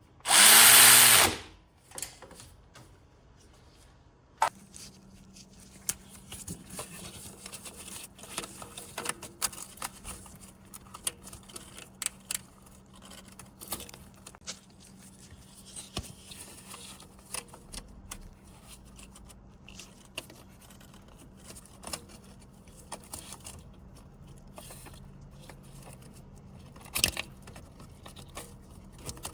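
A power tool runs in one short burst of about a second near the start, then scattered light clicks and knocks of handled parts and tools over a steady low hum.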